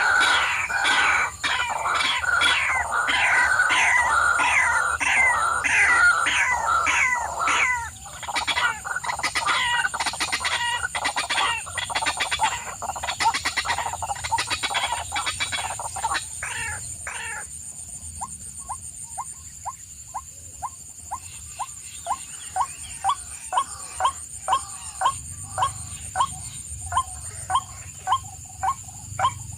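Birds calling: rapid, overlapping squawks and chicken-like clucks for the first half, then a single regular run of short calls, about two a second, growing louder near the end.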